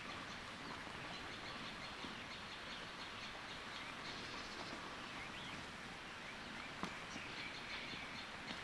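Faint outdoor background with small birds chirping on and off, and a single sharp click about seven seconds in.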